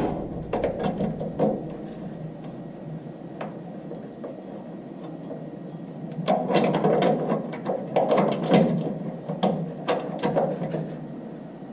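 Hand ratchet wrench clicking in several short runs of rapid strokes, driving the bolts of a leaf-spring drop hanger on the frame.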